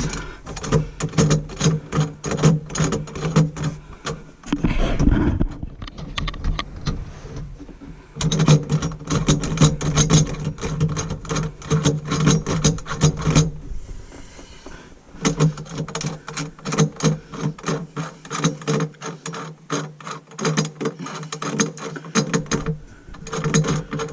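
Rapid ratchet-like clicking as the screws of a garbage disposal sink-mounting assembly are turned down, coming in several runs a few seconds long with short pauses between them.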